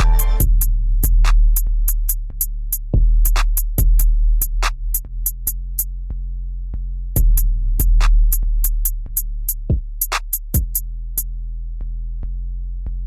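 Hip-hop beat without vocals: drum-machine hi-hats in rapid rolls and a few kick hits over a steady deep 808 bass. The synth melody cuts off right at the start, and the hi-hats drop out a little past two-thirds through, leaving only the bass.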